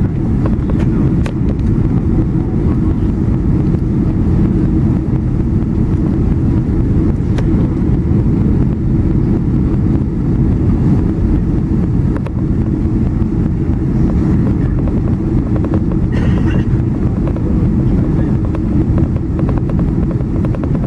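Boeing 767-300 cabin noise: a steady low rumble of the engines and the airflow over the fuselage, heard from inside the cabin.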